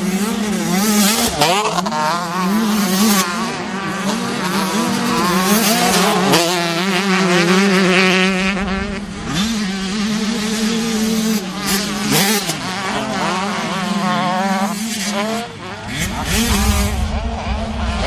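Several dirt-track racing motorcycle engines running and revving at once. Their pitches rise and fall and overlap over a steady engine drone.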